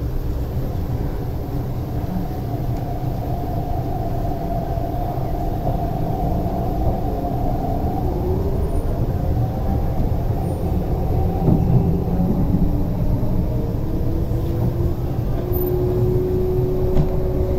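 Running noise heard inside an MTR East Rail Line R-train electric multiple unit on the move: a steady rumble of wheels on rail, growing slightly louder as it goes, with faint whines over it, a higher one in the first half and a lower one near the end.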